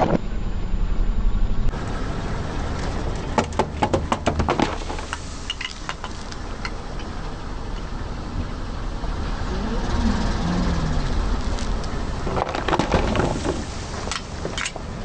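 Car tyres rolling over objects and crushing them: runs of sharp crunching cracks over a steady low engine rumble.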